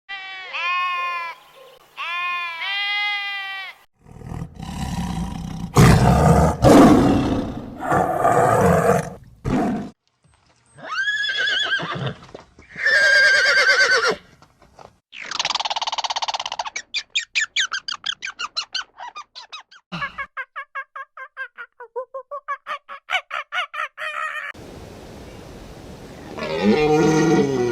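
A series of different animals' calls cut one after another: two wavering pitched calls, then loud rough roars, then several other calls including a fast run of short pulsed calls.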